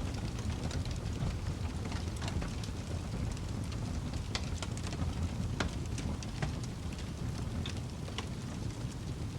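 Wood fire in a fireplace crackling, with a steady low rumble of the flames and irregular sharp pops.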